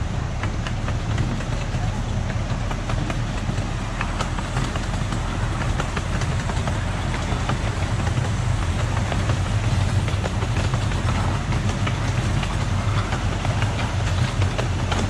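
Amusement park ride train rolling along its track: a steady low rumble of the running train, with frequent light clicks and rattles.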